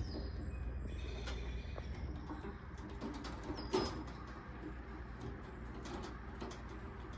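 Birds calling in the background, with short high chirps, over a steady low outdoor rumble. Faint clicks and rustling from wires and twist-on wire connectors being handled, the sharpest click nearly four seconds in.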